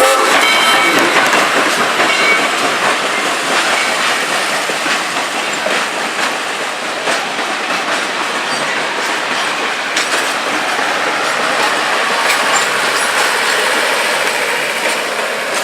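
Steam-hauled passenger train behind Southern Railway 2-8-0 No. 630 rolling past, a steady loud rush of noise with wheels clicking over the rail joints. The locomotive's steam whistle cuts off at the very start.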